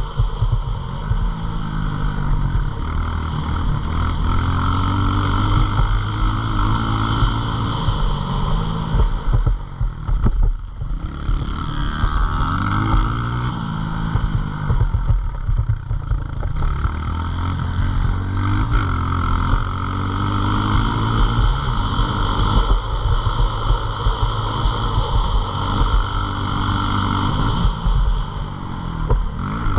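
Pit bike's small single-cylinder engine running under load, its pitch repeatedly rising and falling every few seconds as it is revved up and eased off.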